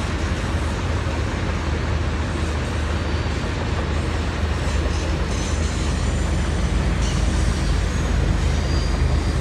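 Steady low rumble and road noise of a car driving at speed, heard from inside the cabin.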